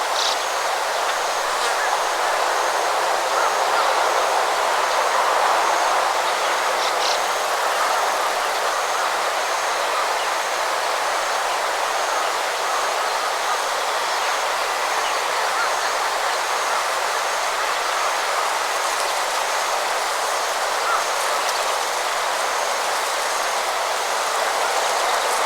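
Steady rush of flowing water, with a faint, evenly pulsing high tone above it.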